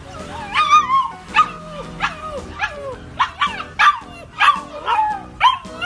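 A dog yipping over and over in short, high calls, each sliding down in pitch, about ten in all, over background music.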